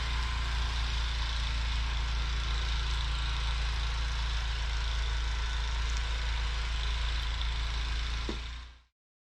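Snowblower engine running steadily while clearing heavy, wet snow; the sound fades out quickly near the end.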